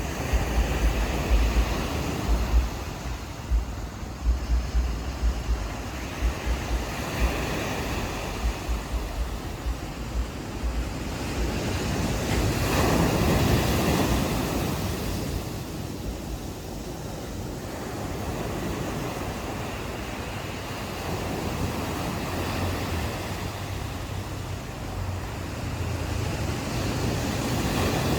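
Ocean waves washing onto a beach, one wash swelling to its loudest about halfway through. Wind buffets the microphone in low thumps over the first several seconds.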